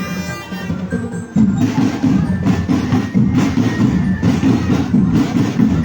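Marching drum band playing: a dense beat of snare and bass drums that drops back briefly and comes in loud again about a second and a half in.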